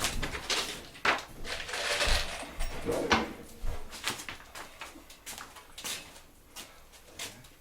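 Handling noise during fitting work: an irregular run of knocks, clicks and short scrapes, busiest in the first half and thinning out toward the end.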